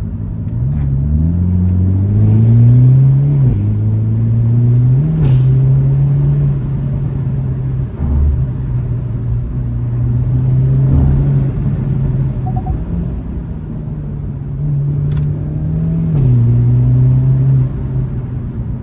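Hyundai Elantra N's 2.0-litre turbocharged four-cylinder engine pulling hard, rising in pitch and dropping suddenly at an upshift about three and a half seconds in, then holding fairly steady revs with a few short dips and blips. Two brief sharp cracks stand out, one near the middle and one late on.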